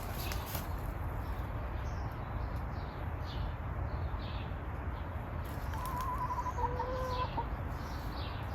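Domestic chickens clucking in short calls, with one longer, drawn-out call about six seconds in.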